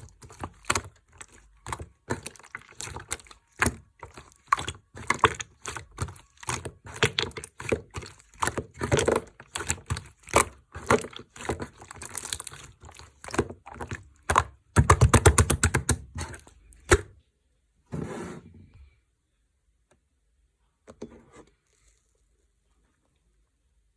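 Slime being kneaded and squished by hand: a run of sharp clicking pops, thickest about fifteen seconds in. The popping stops at about seventeen seconds, and only a few faint sounds follow.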